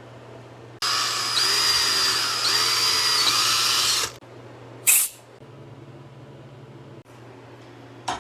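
Power drill running for about three seconds while drilling out a broken bolt, its whine dipping in pitch a few times as the bit bites. A short, loud burst follows about a second after it stops, over a steady low hum.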